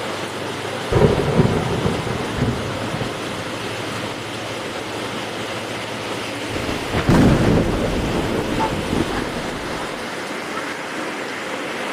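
Heavy rain falling steadily, with two rolls of thunder: one about a second in and a louder one about seven seconds in, each rumbling for around two seconds.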